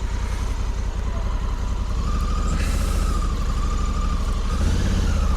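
Honda Africa Twin CRF1100L's 1084 cc parallel-twin engine pulling away in first gear at low speed, a steady low note. A faint high whine rides over it from about two seconds in.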